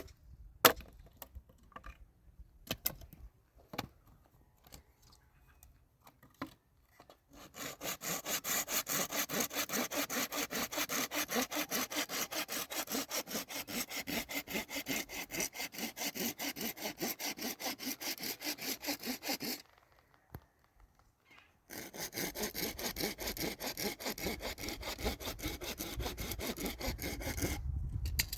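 Sewing machine stitching plastic bags together, its needle running in an even rapid rhythm of about five stitches a second. It starts after some light clicks and handling, stops for about two seconds past the middle, then runs again until just before the end.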